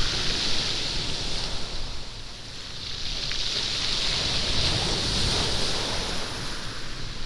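Sea waves washing over a stony beach, the surf rolling and rattling pebbles as it surges and draws back. The wash swells and eases, dipping briefly about two seconds in before building again.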